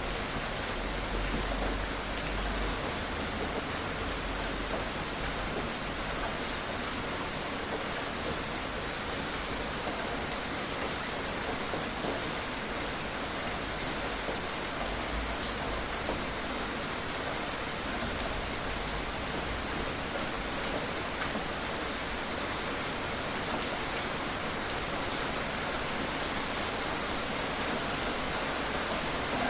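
Steady gentle rain falling, with scattered drops ticking on a surface, as an even, unbroken hiss.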